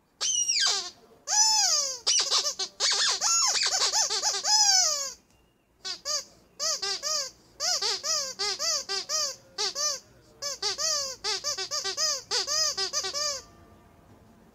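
Rubber squeak toy squeezed over and over in quick runs, each squeak rising and falling in pitch, with a short pause about five seconds in.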